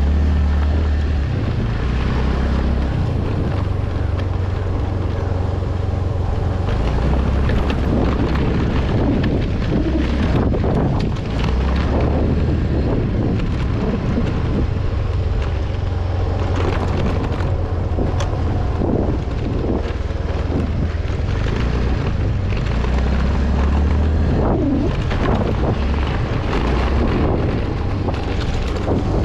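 A vehicle engine running steadily while on the move, with wind buffeting the microphone throughout.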